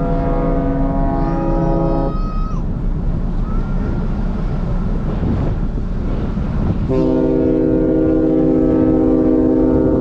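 Ferry's horn sounding in long blasts over steady low rumble: one blast cuts off about two seconds in, and another starts about seven seconds in and holds.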